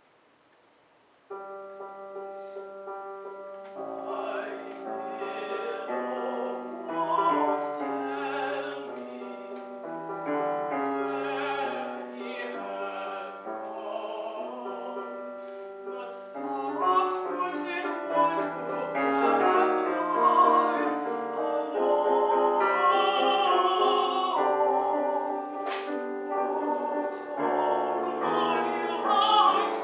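Near silence for about a second, then a piano comes in and a mezzo-soprano sings a classical art song over it with wide vibrato, growing louder toward the middle and end.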